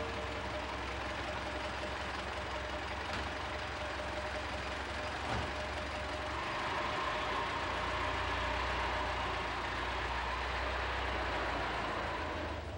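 Engine of a vintage motor car running steadily at idle, a constant low rumble with hiss above it.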